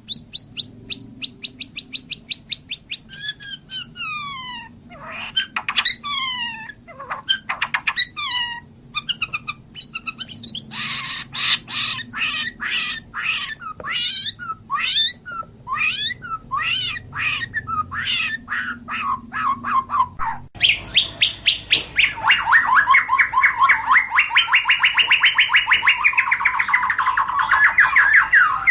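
White-rumped shama singing a varied song of rapid repeated notes, downward-sweeping whistles and fast trills. About twenty seconds in, it changes to a louder, very fast run of short descending notes.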